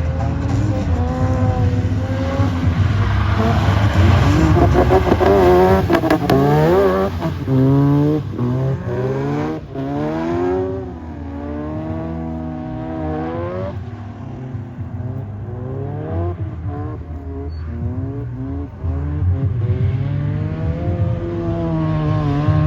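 Mazda RX-8's Renesis rotary engine under hard throttle on a wet track while drifting. It revs up and down repeatedly, with a run of rising and falling pitch swings in the first half, then settles into a lower, steadier drone.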